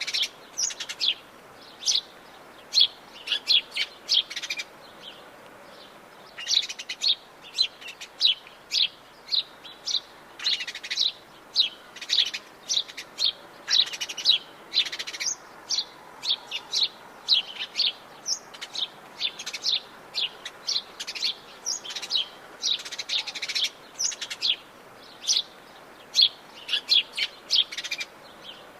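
Songbirds chirping: quick high notes in dense runs, several birds overlapping, with a short lull about five seconds in.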